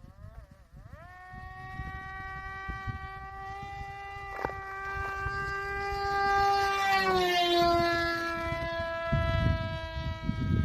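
Parrot Disco's electric pusher motor and propeller whining at high throttle. The whine comes up about a second in, grows louder, and drops in pitch around seven seconds in, as when the plane passes. Low rumbling wind noise near the end.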